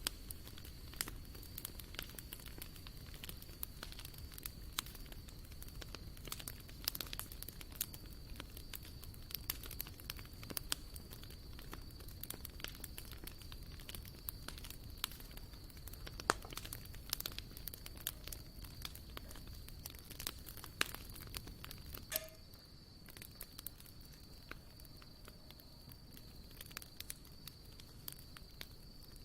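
Wood campfire crackling, with irregular sharp pops that thin out a little after about two-thirds of the way through. A steady, thin, high-pitched tone runs behind it.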